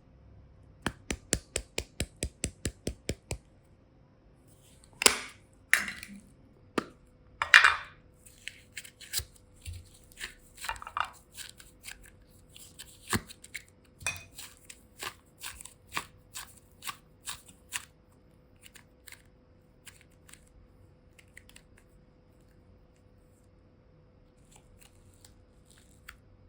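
Close-up handling sounds: a quick, even run of about a dozen small clicks, then a few louder tearing or crinkling sounds and scattered clicks and taps that die away about two-thirds of the way through. A faint steady hum sits underneath.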